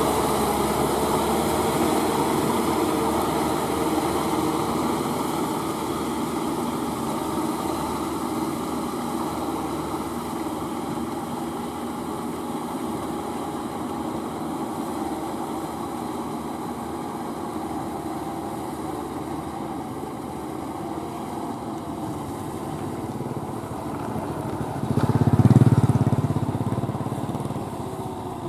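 Kubota M6040SU four-wheel-drive tractor's four-cylinder diesel engine running steadily under load while tilling wet paddy soil, slowly growing fainter. About 25 seconds in, a brief, louder low rumble swells and dies away.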